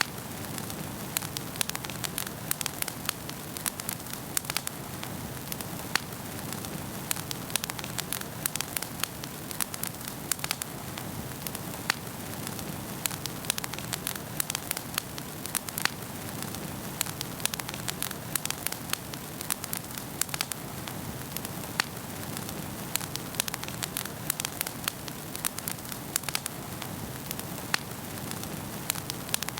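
Wood fire burning in a fireplace, with a steady low rush of flame under frequent sharp, irregular crackles and pops.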